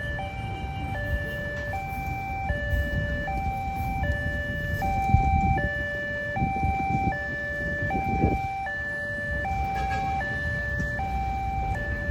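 Railway level-crossing warning alarm sounding, two electronic tones alternating high and low, each held about half a second, over low traffic rumble.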